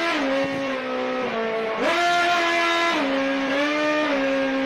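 A race car engine revved and held at a series of set pitches, playing a melody note by note, with short glides up and down between the held notes.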